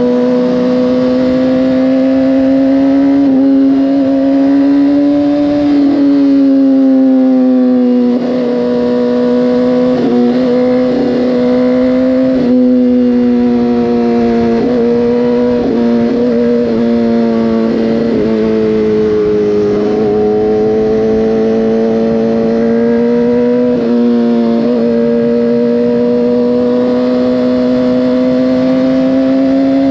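Motorcycle engine running steadily at riding speed, its pitch drifting slowly up and down with the throttle, with a few brief wavers along the way.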